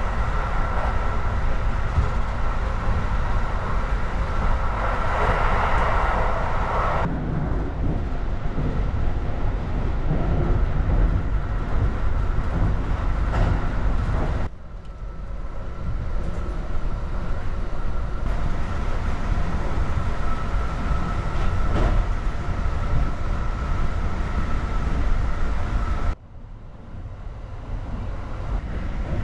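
Kintetsu Hinotori limited express train running, heard inside the carriage: a steady low rumble from the wheels and running gear, with a faint steady high tone over it. The sound dips suddenly twice and builds back up.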